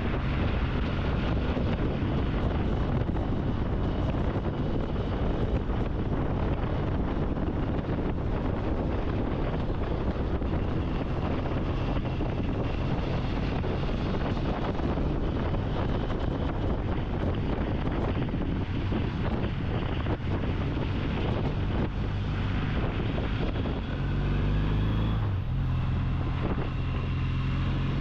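Triumph motorcycle engine running at road speed, with wind buffeting the microphone; the engine note rises briefly near the end, then settles.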